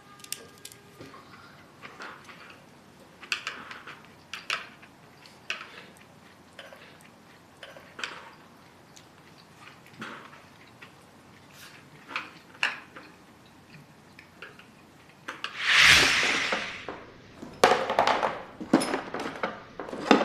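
Scattered light clinks and taps of dishes and cutlery, as at a meal. Near the end there is a louder rush of noise lasting about a second.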